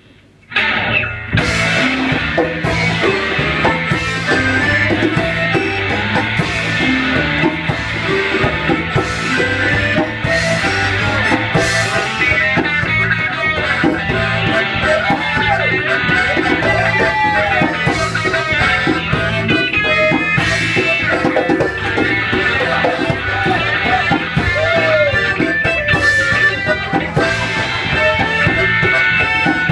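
Rock band music starting abruptly about half a second in and then playing steadily, with guitar over a repeating bass and drum rhythm.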